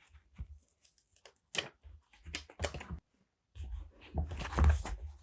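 Paper and stickers being handled close to the microphone: a string of short taps and crinkles, then a longer crinkly rustle from about three and a half seconds in.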